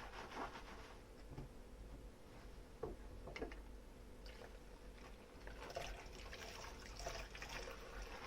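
Dishes being washed by hand in a sink: water trickling and splashing with small scattered clicks, and two sharper taps about three seconds in.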